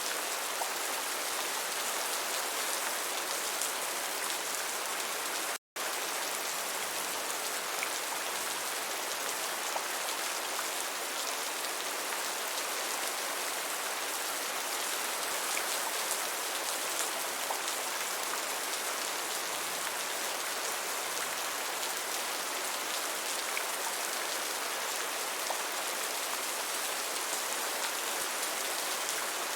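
Gentle steady rain: an even hiss with fine patter of drops. It cuts out completely for an instant about six seconds in.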